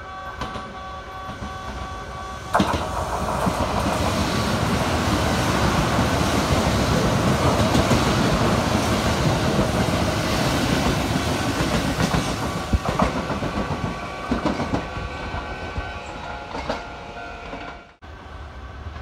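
Kintetsu limited express electric train passing close by at speed. A sudden rush of noise begins as it reaches the microphone about two and a half seconds in, with wheels clattering over rail joints for about ten seconds, then it eases off.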